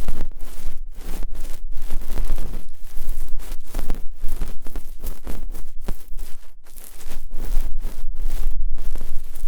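Close-up ASMR ear-picking sounds: an ear pick scraping and rubbing in quick, irregular strokes, several a second, over a steady low rumble.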